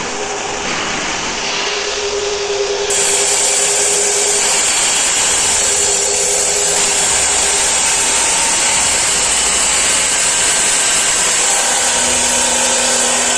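Tiến Đạt F300 abrasive metal cut-off saw running with a steady motor hum; about three seconds in, the cutting disc bites into steel and a loud, steady grinding takes over for the rest.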